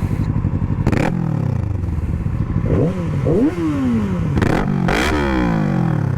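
Yamaha R6 inline-four sport bike engine heard from the rider's seat, its pitch falling repeatedly as it slows on engine braking, with two quick revs about three seconds in and a few short sharp bursts of noise.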